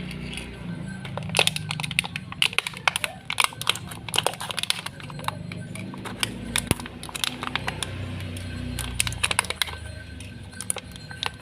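Rapid, irregular clicking and crackling of plastic as a toy is handled, over faint music.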